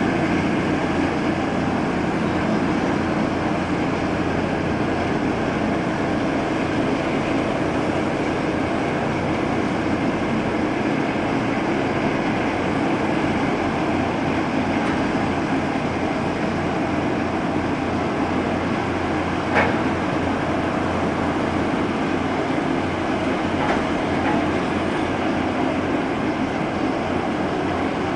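Steady, unbroken rumble of a departing ship's engines, with one short click about twenty seconds in.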